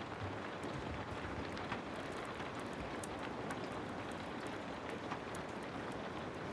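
Heavy rain falling steadily as a dense, even hiss, with a wood fire's sharp crackles and pops scattered through it.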